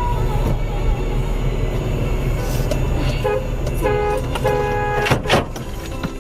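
Dashcam audio of a vehicle on the road, with a steady low engine and road rumble. A car horn honks three times about three seconds in, then come two sharp knocks near the end.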